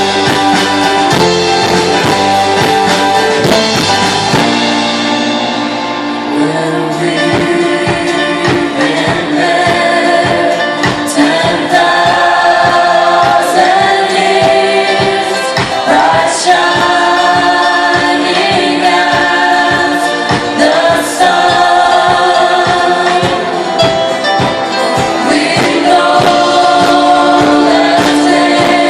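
Live worship band playing a gospel song, with several voices singing together over a drum kit keeping a steady beat.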